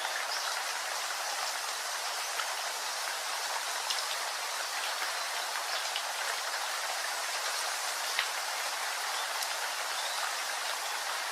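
Steady rain: an even hiss of falling rain with scattered louder drops striking close by.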